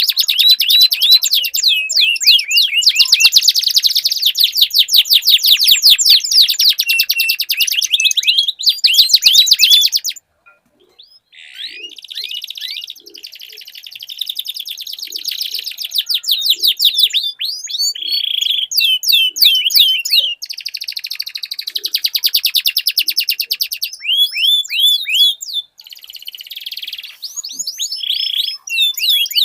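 Domestic canary song: long rolling trills of rapid, repeated falling notes, high-pitched and continuous. The song breaks off abruptly about ten seconds in and picks up again a second or so later.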